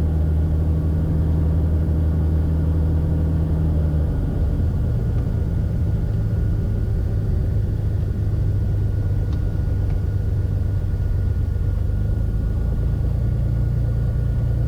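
Beechcraft Bonanza's piston engine running at low power in the cockpit, a steady drone whose note turns rougher about four seconds in, with a faint steady high whine beneath it.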